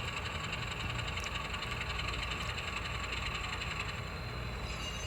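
N scale model locomotive running on the layout track: a steady, engine-like hum with a fast, fine rattle, holding level without stopping.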